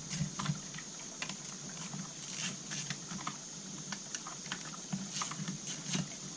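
Light irregular clicks and taps of small tools and plastic and metal parts being handled while refitting a chainsaw's carburetor and choke linkage, over a steady faint hum.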